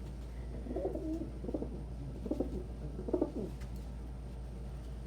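Domestic pigeons cooing: four short low coos in about three seconds, over a steady low hum.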